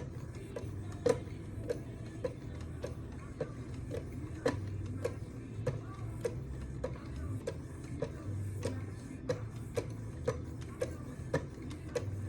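Wicked Edge guided sharpener's stones being stroked along the knife blade in a steady rhythm, a short sharp click at each stroke, about two a second.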